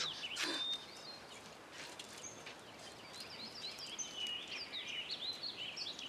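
Small birds chirping and twittering over a faint background hiss. The chirps are sparse at first and grow busier in the second half.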